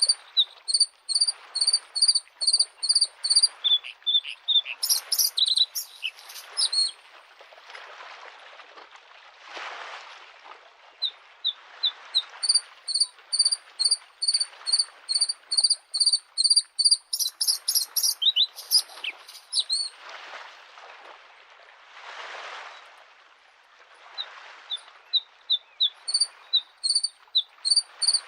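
Bluethroat singing: runs of quick repeated high notes, about three a second, twice breaking into a short jumble of higher notes. Under the song, small waves wash on a lakeshore, swelling and fading.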